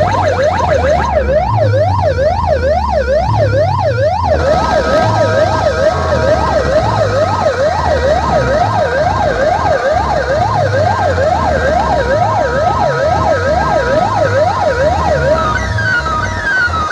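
Siren sound effect played through a DJ sound system, wailing quickly up and down about twice a second over a pounding bass beat. Near the end the wail stops and a run of short falling chirps takes over.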